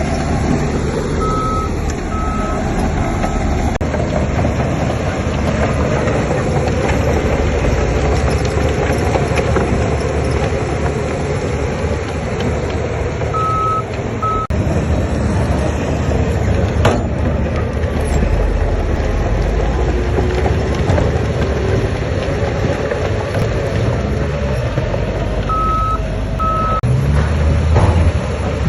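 Diesel engines of heavy earthmoving machinery running steadily under load, with a reversing alarm giving short beeps in small groups near the start, about halfway through and near the end.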